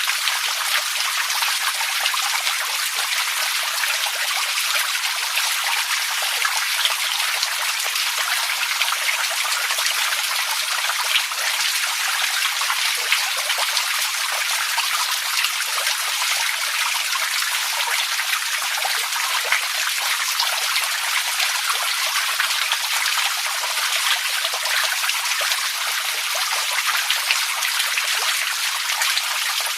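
Running water trickling and splashing steadily: an even, bright hiss made of countless small splashes, unchanging throughout.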